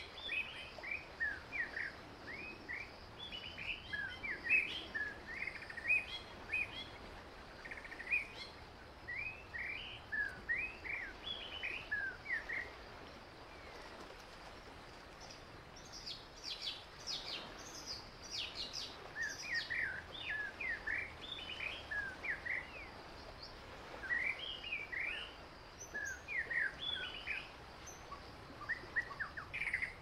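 Wild birds chirping and calling, a steady run of short slurred chirps, with a quick burst of higher notes about halfway through, over a faint outdoor background hiss.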